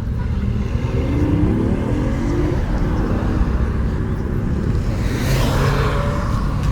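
A car engine running over a steady low rumble, its pitch rising as it revs about a second in; a car passes with a rising rush near the end.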